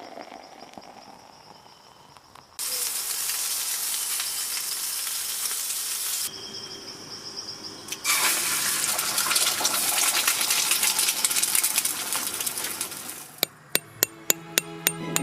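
Food sizzling on a grill over a campfire in two long stretches of steady hiss, broken by quieter gaps. Near the end a rhythmic clicking beat begins as background music starts.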